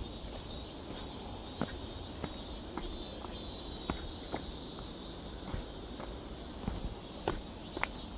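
Footsteps on forest ground, irregular soft knocks roughly every second, over steady high insect trilling.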